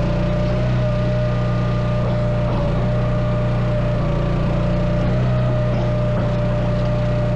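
An engine running steadily at a constant speed, with a steady whine held above its hum.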